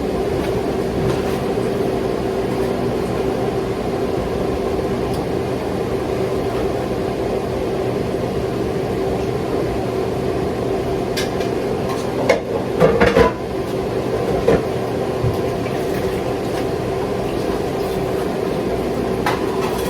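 Steady hum of a kitchen appliance running, with a short clatter of dishes and utensils about twelve to thirteen seconds in and a couple of lighter knocks later.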